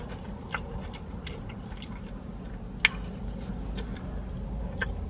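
A man chewing and smacking a mouthful of pad thai noodles close to the microphone: scattered wet mouth clicks, one sharper click about three seconds in, over a steady low hum.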